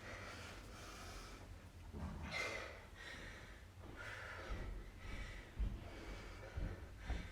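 Heavy breathing, a run of long rasping breaths roughly a second apart, with a few short low thumps in the second half.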